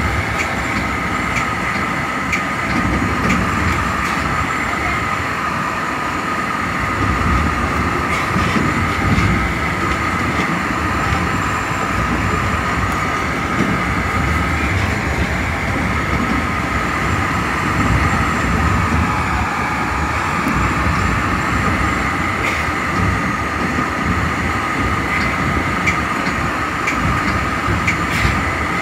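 Metra commuter train running along the line, heard from the leading cab car: a steady rumble of wheels on rail with a constant high hum and scattered faint clicks.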